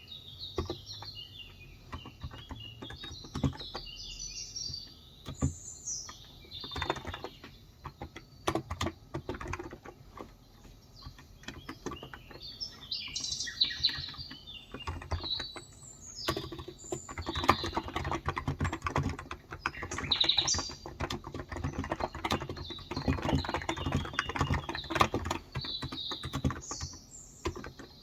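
Typing on a Cox Endeavor 35g electrostatic capacitive tenkeyless keyboard: a patter of soft keystrokes that grows busier in the second half. Birds chirp now and then over the typing.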